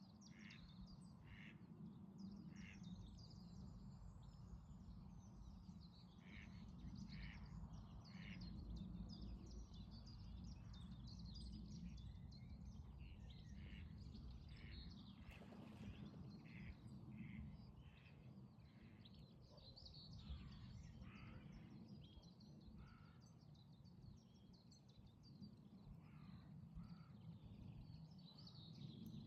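Faint birds calling: runs of short, repeated calls, several a second at times, over a steady low rumble.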